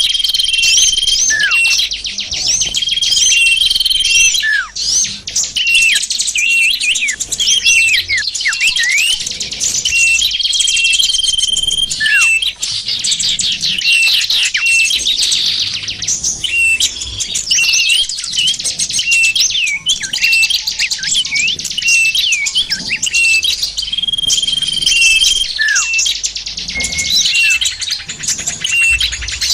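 Bird-lure recording of many small songbirds chirping and twittering at once in a dense, unbroken chorus, with quick falling whistles and a held high whistled note that recurs several times.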